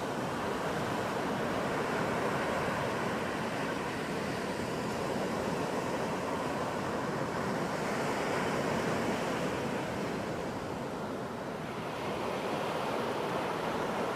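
Ocean surf breaking and washing onto a beach: a steady rush of waves that swells a little and eases off again as sets come in.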